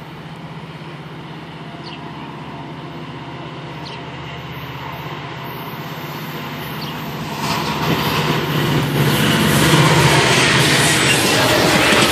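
GO Transit commuter train approaching fast and passing close by, its low steady hum and rail noise growing steadily louder. Near the end, as the double-deck coaches go past, the wheels clatter rhythmically over the rails.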